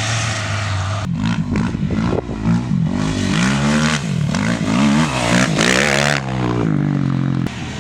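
An off-road vehicle's engine revving, its pitch rising and falling again and again for several seconds, with a steady engine note before and after.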